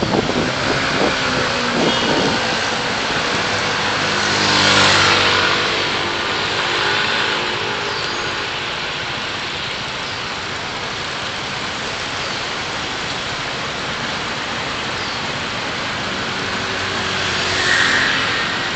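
Road traffic heard while driving, with steady tyre and road noise. A louder swell with a vehicle engine's hum comes about five seconds in, and a shorter one near the end.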